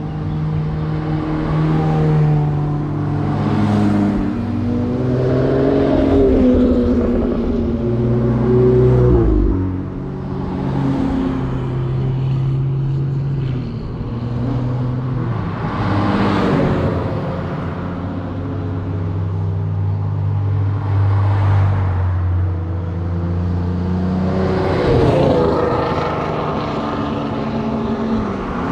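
Sports car engines running and revving as cars drive past one after another, each pass swelling and rising in pitch, then fading.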